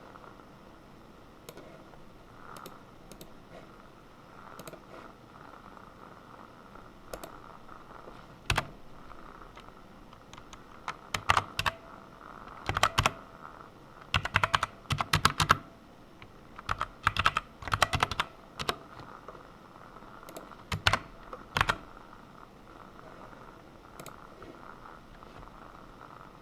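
Computer keyboard typing: scattered single keystrokes at first, then quick runs of clicks in several bursts through the middle, thinning out again near the end.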